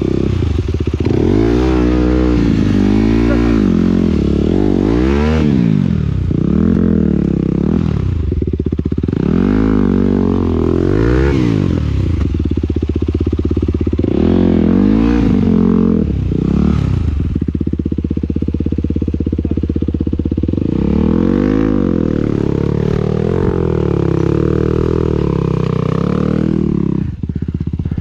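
Motocross bike engines revving up and falling back over and over, the pitch climbing as the throttle opens and dropping as it closes, above a steady low engine rumble.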